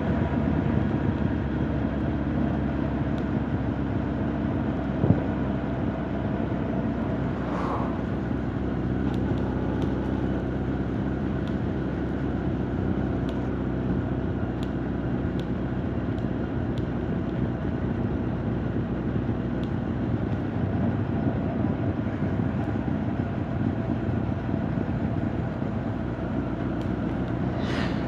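Honda CB1300 Super Bol d'Or's inline-four engine and exhaust running at a steady cruise while riding, picked up at the rider's back with little wind noise. A single sharp click about five seconds in.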